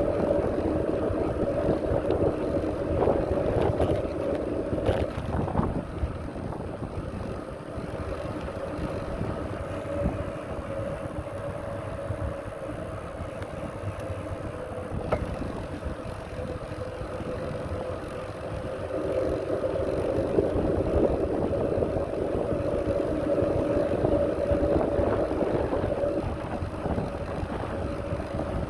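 Riding noise from a moving bicycle: low wind rumble and rolling noise, with a steady droning hum that swells at the start and again about two-thirds of the way in.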